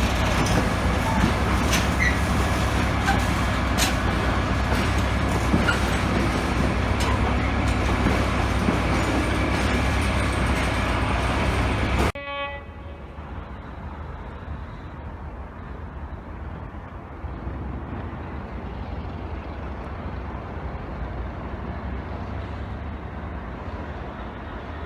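Train running loudly at close range, a steady heavy rumble with a few clicks, for about twelve seconds. It cuts off abruptly and is replaced by a quieter low rumble.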